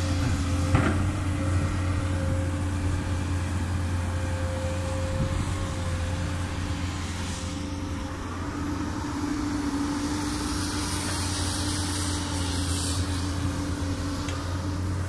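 Komatsu PC200 excavator's diesel engine running steadily while it works, a steady hum with a higher tone over it. A sharp click comes about a second in, and a brighter hiss rises for a few seconds in the second half.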